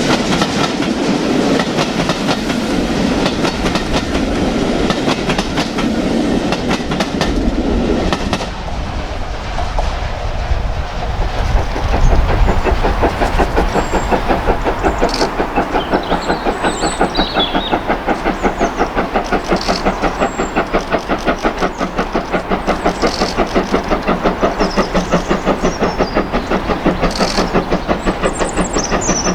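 Train running past on the line; about a third of the way in the sound changes to a steady, even rhythmic beat of roughly three a second that carries on to the end.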